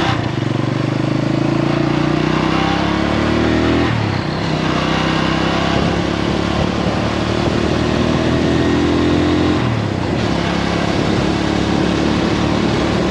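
Motorbike engine under way, pitch climbing as it accelerates, then dropping with a gear change about four seconds in and again about ten seconds in, then holding steady, with wind rushing over the microphone.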